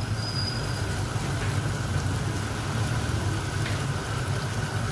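Chicken and vegetable masala sizzling in a kadai, a steady crackle from the sauce cooking down with a little added water, over a steady low hum.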